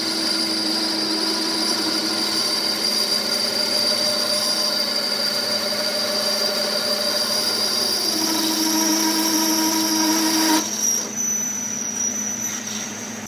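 A power tool or workshop machine running steadily with a high whine. Its sound drops away about ten and a half seconds in, leaving a fainter whine.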